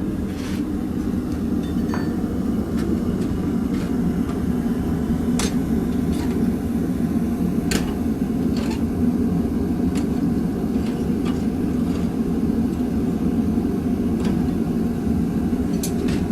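Forge running with a steady low roar, with a scattered handful of light clicks and clinks over it.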